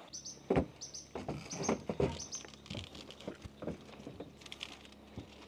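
A bird's short high chirp, repeated about five times in the first two and a half seconds, over irregular knocks and taps.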